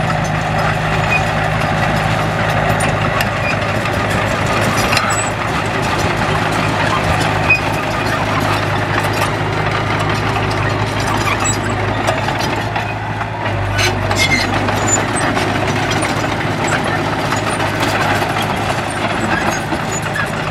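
Bulldozer's diesel engine running steadily, with a few short metallic clanks; the engine note changes about two-thirds of the way through.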